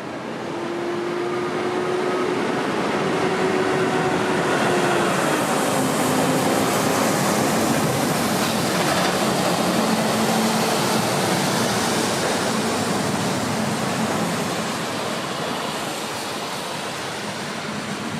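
Jet airliner passing, its engine roar swelling over the first couple of seconds, holding, then fading. Faint tones in the roar drop in pitch as it goes by.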